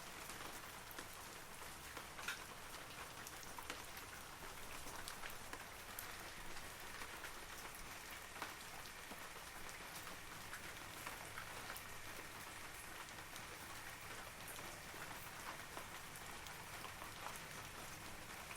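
Steady rain falling on forest trees, an even hiss with scattered individual drops ticking, one a little louder a couple of seconds in.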